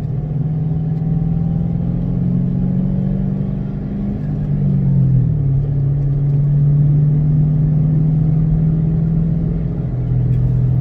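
2006 Ford Mustang GT's 4.6-litre V8 running as the car drives along, its note rising slightly, dropping in pitch about halfway through, then holding steady.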